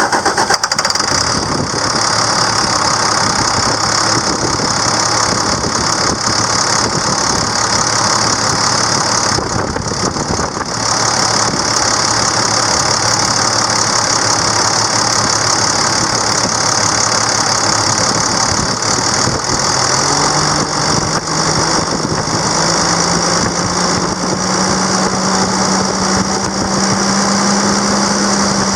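International DT466 inline-six turbo diesel idling steadily. About two-thirds of the way through, a pitched drone comes in and slowly rises.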